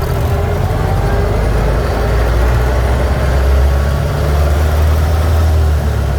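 The engine of a 1926 fuel truck running steadily while the truck is driven at low speed, heard from the cab as an even, low drone.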